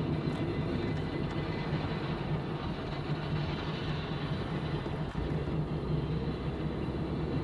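Steady low rumble of a car driving at highway speed, the engine and road noise heard from inside the cabin.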